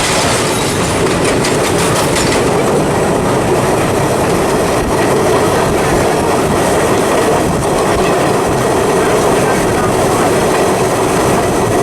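Vintage subway train running on the rails: a loud, steady rumble, with quick rail-joint clicks in the first couple of seconds.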